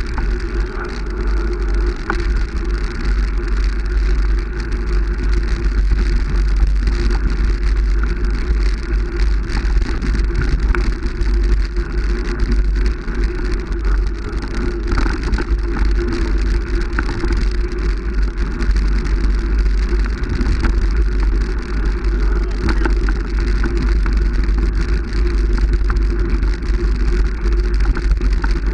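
Steady running noise of a moving vehicle, with a heavy low rumble of wind buffeting the microphone.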